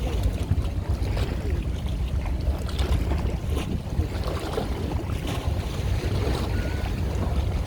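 Wind buffeting the microphone, a steady low rumble with some crackle, over water washing.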